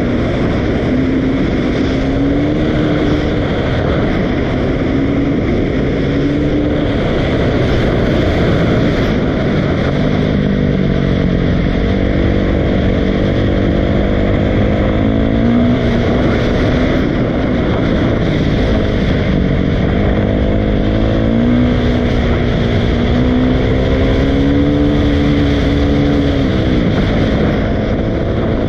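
Dirt bike engine running under riding load, revving up and then dropping back again and again, its pitch rising and falling repeatedly.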